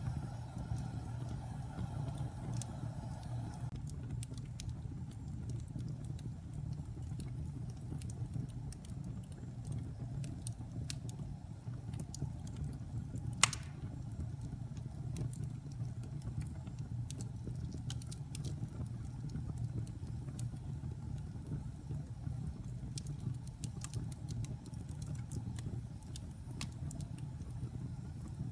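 Wood fire burning in a fireplace: a steady low rumble of flames with scattered light crackles, and one sharp pop about halfway through.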